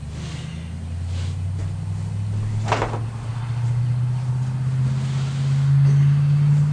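A motor vehicle engine running steadily, rising a little in pitch and getting louder toward the end. A short knock comes partway through.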